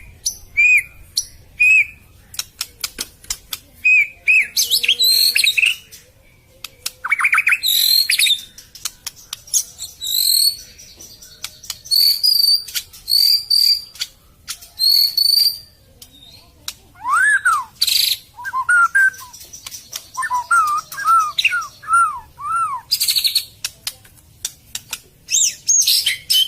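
White-rumped shama (murai batu) singing a long, varied song: short repeated whistled notes, high rapid trills and chatter, and a run of rising-and-falling whistles in the second half, phrases separated by brief pauses. This is the kind of song played as a lure call.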